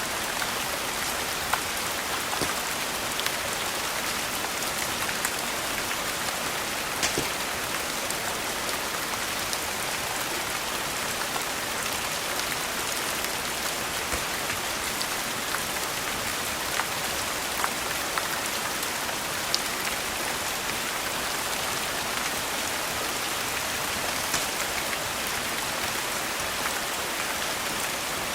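Steady rain falling, with occasional sharp crackles and pops from a wood fire.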